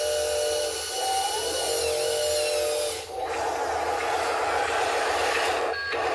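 A power tool running with a steady whine, changing about three seconds in to a rough, even noise, with a brief break a little before the end.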